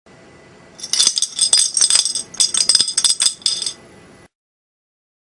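A flattened metal bottle cap rattling inside a glass bottle as the bottle is shaken: a quick run of sharp, ringing clinks lasting about three seconds.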